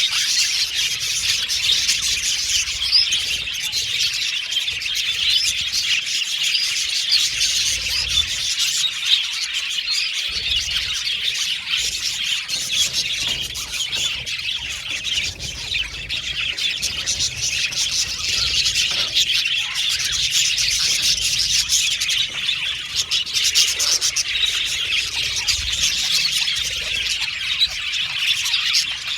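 A flock of budgerigars chattering without a break, with many overlapping chirps and squawks at once.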